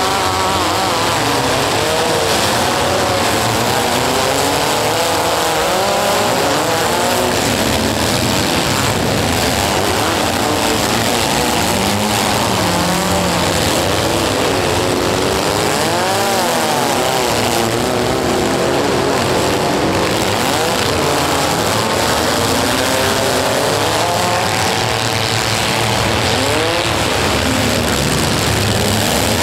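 Many compact cars' four-cylinder engines revving up and down at once, their pitches rising and falling over each other continuously, as the demolition-derby cars push and ram one another.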